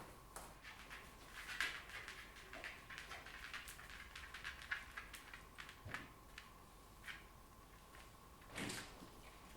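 Faint handling noises: scattered small clicks and rustles, with a louder rustle near the end, over a faint steady high hum.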